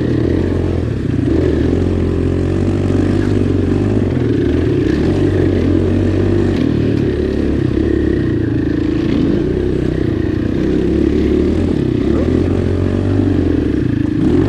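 Four-stroke single-cylinder dirt bike engine running at low to middle revs on a slick, muddy trail, its pitch rising and falling steadily with the throttle.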